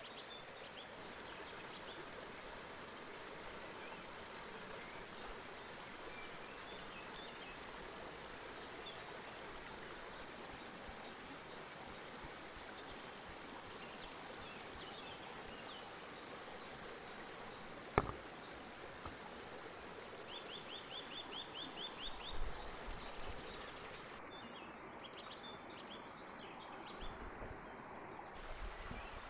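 Creek water running steadily, with birds chirping now and then. There is one sharp click about two-thirds of the way through, and soft knocks and rustles near the end.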